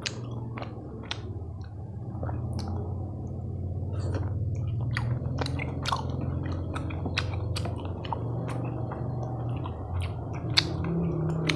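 Close-up chewing of chewy Korean tteokbokki rice cakes in chilli sauce: a run of short, sticky mouth clicks and smacks, roughly one or two a second, over a steady low hum.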